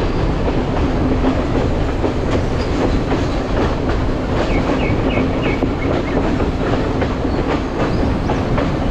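Chinese-built S14 diesel train set running along the track, its wheels clacking over rail joints over a steady engine drone.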